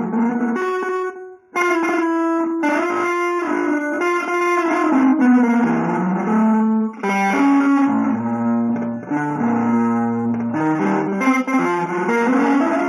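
Guitar playing a fast, angular melodic line of single notes, with a brief break about a second and a half in and a few longer held low notes later on.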